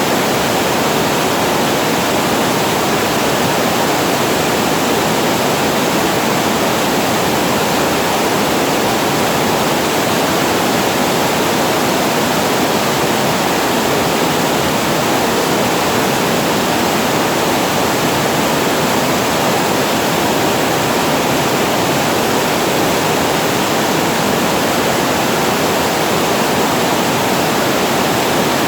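Water spilling over a reservoir weir and falling below it: a loud, steady, unbroken rush.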